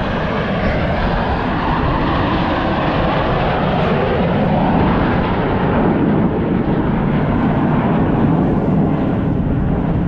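Airshow jet aircraft passing overhead: a continuous loud engine roar that swells slightly and sinks lower in pitch as the planes go by.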